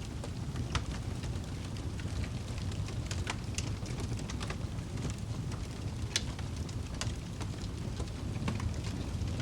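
Wood fire in a fireplace crackling: scattered sharp pops at irregular moments over a steady low rumble of the flames, the loudest pop about six seconds in.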